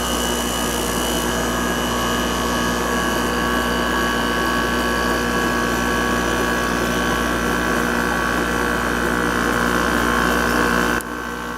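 LG-built Whirlpool 5,000 BTU window air conditioner running with its compressor just started alongside the fan: a steady hum with constant tones. It sounds real good, a sign of a healthy unit. The sound drops suddenly near the end.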